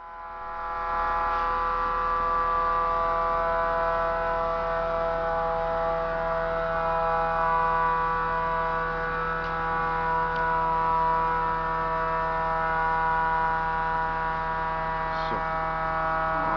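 Steady humming drone of several fixed tones, fading up in the first second and holding level throughout, with a few faint ticks.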